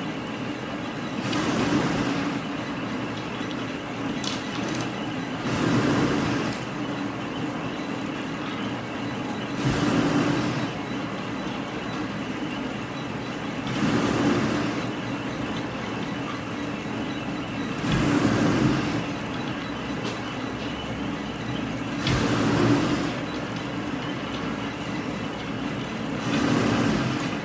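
Machinery running with a steady hum, with a louder rushing surge about a second long that comes back about every four seconds, like a machine working through a repeating cycle.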